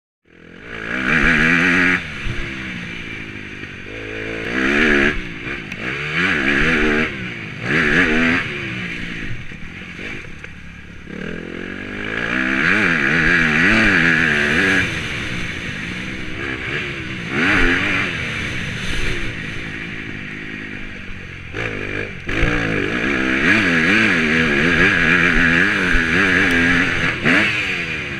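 Motocross bike engine, recorded from an onboard GoPro, revving hard and backing off again and again, the pitch climbing and dropping with throttle and gear changes.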